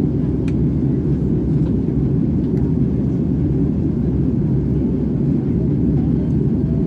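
Airbus A330 cabin noise in flight: a steady, even low rumble of engines and airflow heard from inside the cabin.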